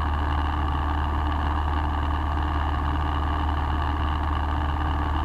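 Steady drone of a light single-engine piston airplane's engine and propeller heard from inside the cabin, holding an even pitch in level flight.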